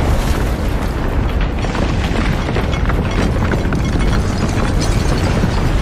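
Earthquake rumble: a deep, continuous rumbling with dense rattling and clattering on top, steady in level.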